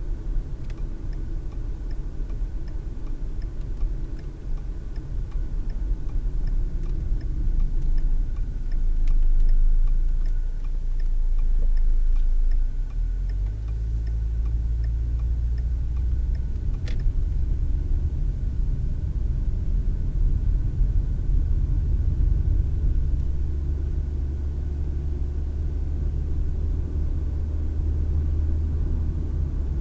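Car driving along, heard from inside the cabin: a steady low rumble of engine and tyres on the road, which gets heavier about halfway through. For the first half a faint regular ticking runs over it, about two ticks a second, and stops after a sharper click.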